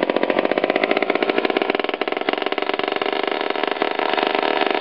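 Power Products Model 1000 small aluminum two-stroke stationary engine running with no muffler: a fast, even string of exhaust pops.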